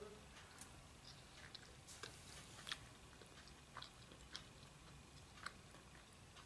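Faint chewing of a mouthful of fried rice and Manchurian, with scattered soft mouth clicks and smacks.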